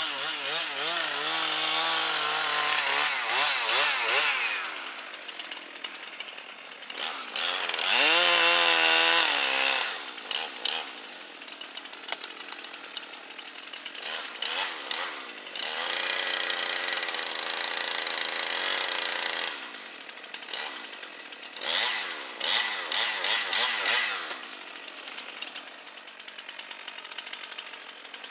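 Two-stroke chainsaw revving up in several bursts of cutting, each a few seconds long, and dropping back to a lower running note between them.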